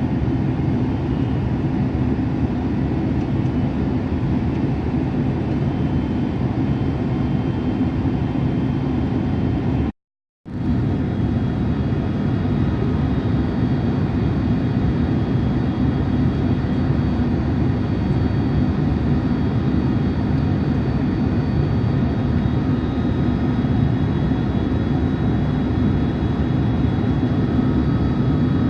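Steady jet-engine cabin noise inside an airliner in flight: an even roar with a constant low hum. The sound cuts out completely for about half a second about ten seconds in.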